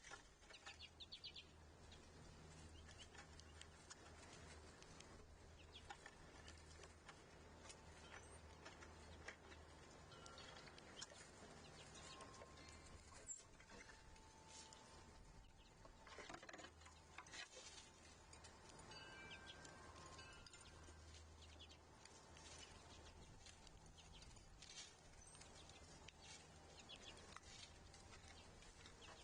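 Faint outdoor ambience of scattered bird chirps and short whistled calls, with occasional small clicks and taps throughout.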